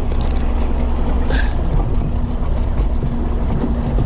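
A boat's motor running steadily under way, a low rumble with a constant hum, with wind noise over it and a few light clicks near the start.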